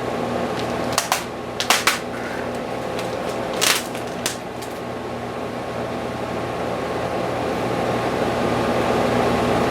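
Steady hum of a fan running, with a few sharp clicks about a second in and just before two seconds, and a brief rustle near four seconds from handling the stencil and its tape.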